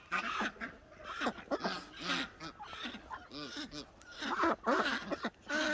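A flock of domestic ducks calling, many short quacks overlapping one another with hardly a pause.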